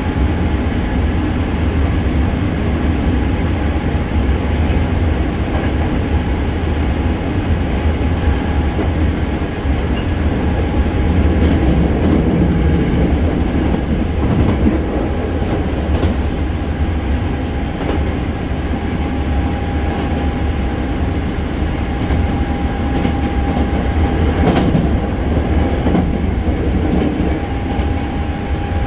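Hankyu 6300 series electric train heard from inside a passenger car while running at speed: a steady rolling rumble with a thin steady whine above it and a couple of sharp clicks from the wheels on the track.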